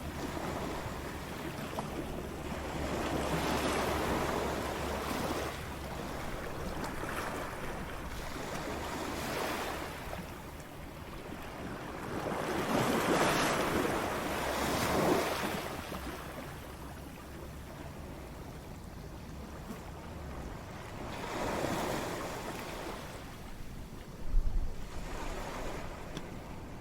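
Ocean waves breaking and washing ashore, the surf swelling and fading in three surges about eight or nine seconds apart. Near the end comes a brief low thump, the loudest moment.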